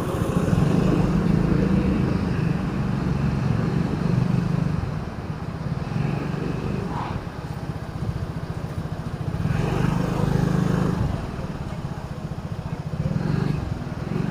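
A vehicle's engine runs while driving in city traffic over steady road noise. Its hum swells and eases several times as it speeds up and slows.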